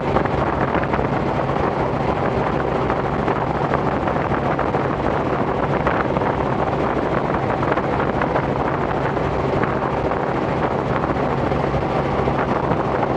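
Robinson R44 helicopter in cruise flight, heard from inside the cabin: the steady drone of its engine and rotors with wind rush, unchanging throughout.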